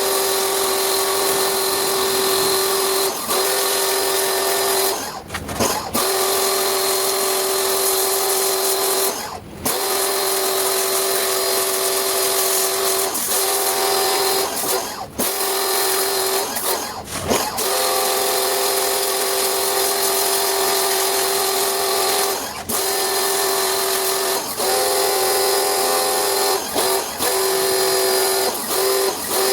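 Electric motor running steadily with a high, even hum, cutting out briefly about five times and starting again each time.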